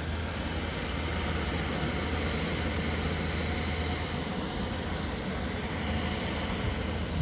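Backpacking canister stove burners running at full flame in cold wind: a steady rushing hiss with a low hum underneath.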